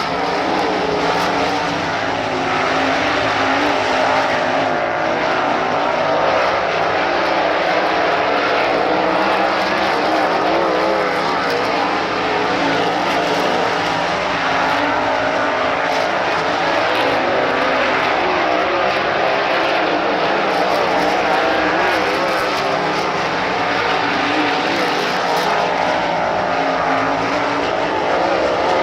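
A field of sprint cars' V8 engines running hard on track together, a loud steady din with many engine pitches wavering up and down as the cars circle and pass.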